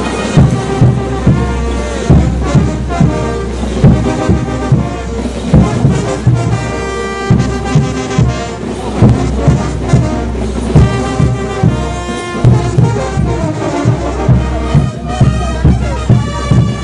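Brass band playing diablada music: brass instruments carry the melody over a steady, loud bass drum beat of about two strokes a second.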